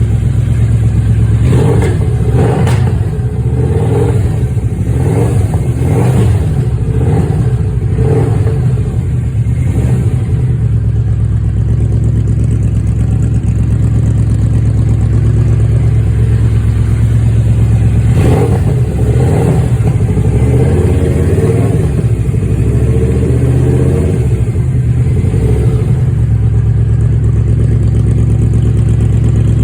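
Yamaha Royal Star Venture V4 engine running loud through Rinehart Racing aftermarket exhaust pipes, idling steadily. The throttle is blipped in repeated quick revs through the first ten seconds and again in a second spell from about eighteen to twenty-six seconds in.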